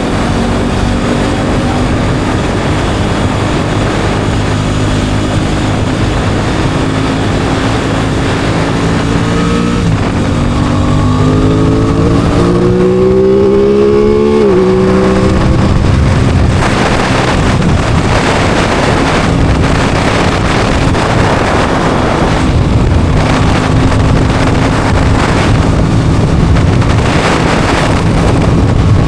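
Aprilia Tuono 660 Factory's parallel-twin engine running under way. About ten seconds in, the revs climb for four seconds and drop sharply at a gear change. The engine is louder through the second half.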